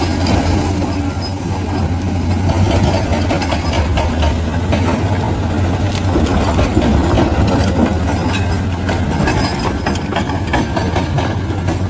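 Bulldozer's diesel engine running steadily with a constant low drone, over a dense, continuous clatter of small knocks.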